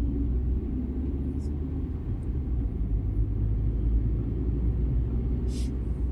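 Steady low rumble of engine and road noise heard inside a moving car, with a brief hiss about five and a half seconds in.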